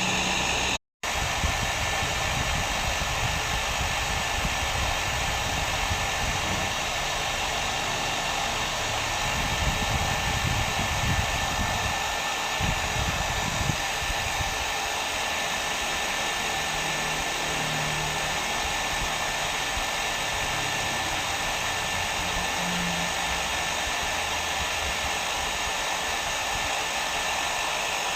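Hair dryer running steadily: an even rush of blown air with a faint steady whine. It cuts out to silence for a split second about a second in, then carries on unchanged.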